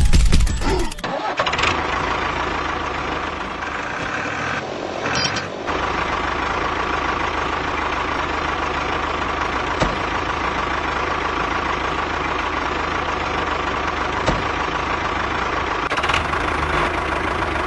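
A loud burst about a second long, then a mini truck's motor running steadily, with a held mid-pitched tone in it and a short dip about five seconds in.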